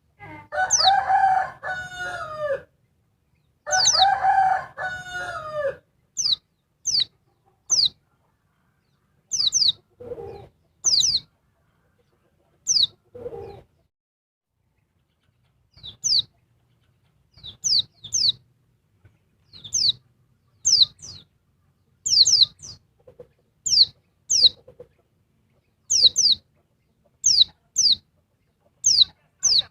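A rooster crows twice in the first six seconds, the loudest sounds here. Throughout, a female white-eye (pleci) gives many short, high chirps that fall sharply in pitch, singly or in quick pairs.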